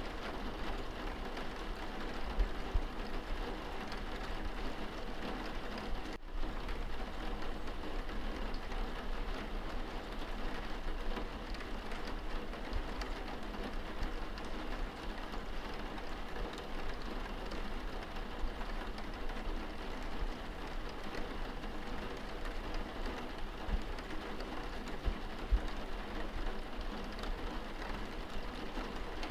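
Steady rain pattering on window glass, heard from indoors, with scattered louder drop ticks over a low rumble. The sound briefly drops out about six seconds in.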